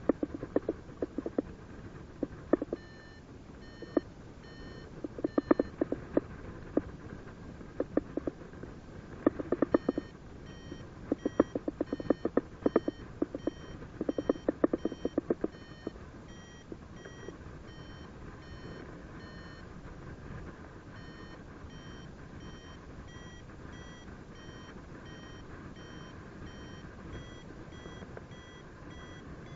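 Paragliding variometer beeping in short tones about twice a second, its pitch edging higher near the end, the sign of the glider climbing in lift. Bursts of rapid crackling sound over the first half.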